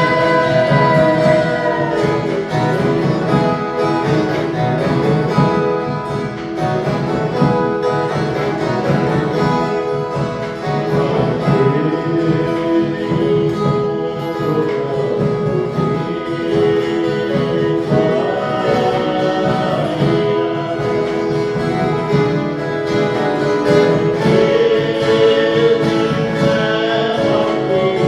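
Ensemble of viola caipira (Brazilian ten-string folk guitars) playing a Christmas song, with plucked and strummed strings and voices singing along in places.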